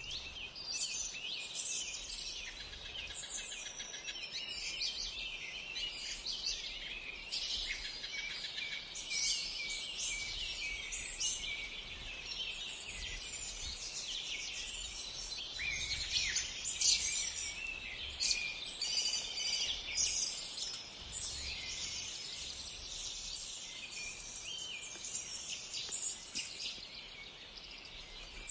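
Many small songbirds calling at once, a dense, overlapping run of short high chirps and twitters that goes on throughout.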